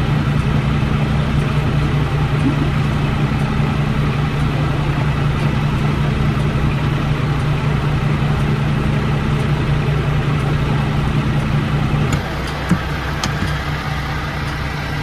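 Semi truck's diesel engine running steadily at an even speed. About twelve seconds in its note changes and it becomes quieter, with a light knock shortly after.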